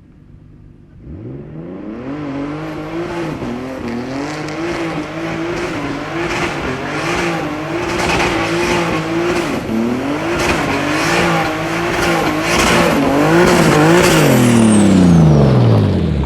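Turbocharged BMW E46's engine coming in loud about a second in and revving repeatedly, its pitch rising and falling in quick waves and growing louder. Near the end the pitch falls steadily as the revs drop, with a high whistle sliding down.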